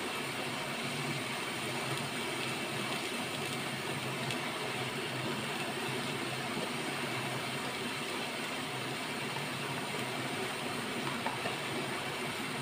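Okra and onions sizzling steadily in hot oil in the cooking pot, with a couple of faint ticks near the end.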